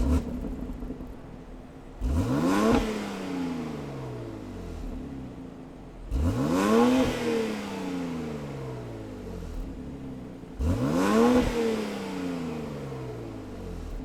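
BMW X3 M / X4 M twin-turbo inline-six revved three times through its exhaust while parked. Each blip rises sharply and falls back to a steady idle over a couple of seconds, about four seconds apart.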